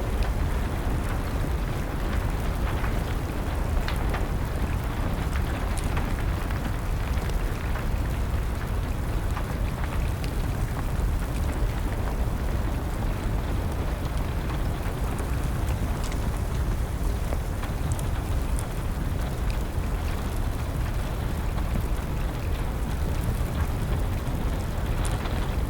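Steady rain with a deep, even rumble, and a wood fire's faint crackles and pops scattered through it.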